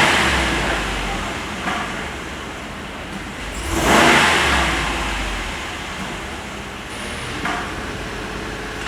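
Dodge 6.4-litre Hemi V8 running and being revved: one rev dies away at the start, another blip climbs to a peak about four seconds in and drops back to a steady idle.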